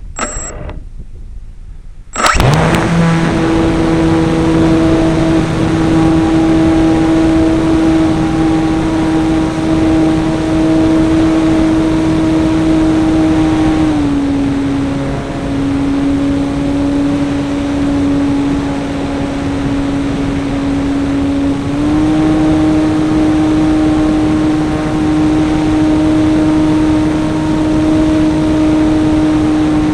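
Small .21-size RC model airplane engine running at high, steady revs, heard close up from on board. It comes in abruptly about two seconds in, dips slightly in pitch about halfway through as the throttle eases, and rises again near the last third.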